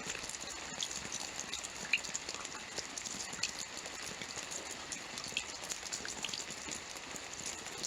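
Steady rain falling: an even hiss with many separate drop ticks scattered through it.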